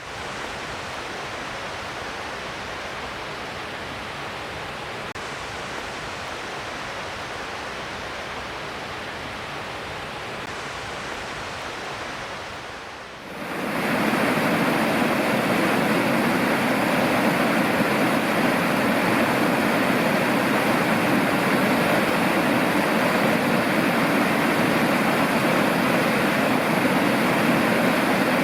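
Mountain river rushing, a steady noise of flowing water. About halfway through it suddenly becomes louder and fuller.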